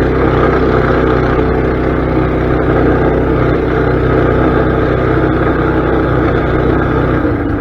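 Mini bike's small engine running steadily, with an even, unbroken note; the low part of its sound changes shortly before the end.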